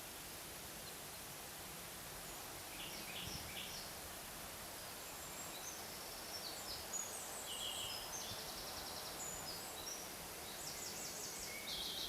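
Forest ambience: songbirds singing short trilled phrases now and then, about three seconds in, through the middle, and again near the end, over a steady background hiss.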